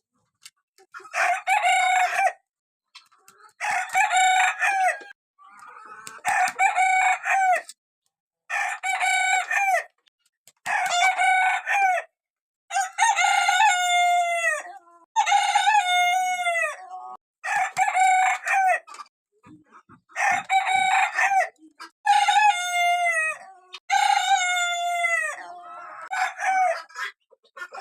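Young roosters crowing over and over, about a dozen crows in a row roughly every two seconds, several of them ending in a falling note.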